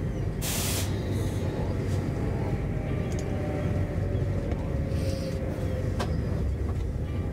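Inside an SJ X40 double-deck electric train on the move: a steady low rumble from the running gear, with a short hiss about half a second in. A faint whine falls slowly in pitch through the middle, and a single click comes near the end.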